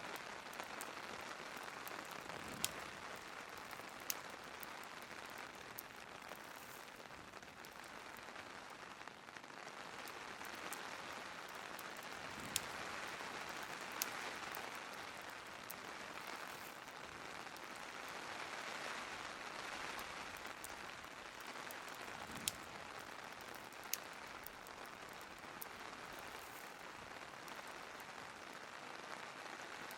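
Steady rain falling, with a fireplace crackling underneath: now and then two sharp pops about a second and a half apart.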